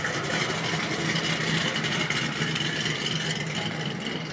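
Car engine running steadily at idle, a low even hum over general outdoor noise.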